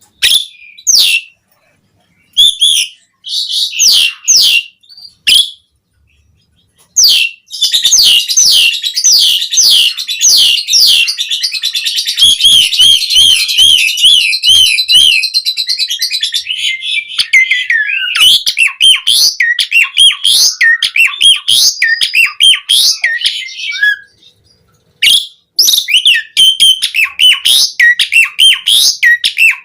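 Asian pied starling (jalak suren) singing loudly and energetically. Short phrases with gaps come first, then a long, dense run of rapid high rippling notes, then varied chirps and whistles, broken by a brief pause about four-fifths of the way through.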